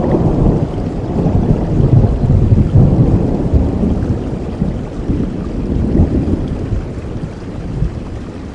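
Rain falling with a long, deep rumble of thunder that swells at the start, peaks after a couple of seconds and slowly fades away.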